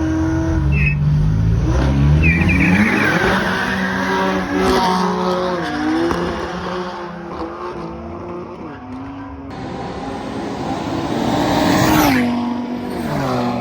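Drag racing cars accelerating hard down the strip, engines revving up and dropping back at each gear change. Near the end a car goes by loudly, its engine note falling in pitch as it passes.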